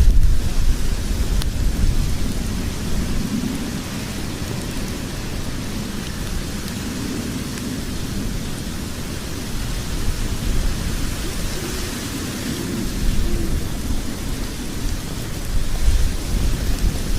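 Log fire burning in a fireplace: a steady low rumble of flame with a hiss above it and an occasional faint crackle.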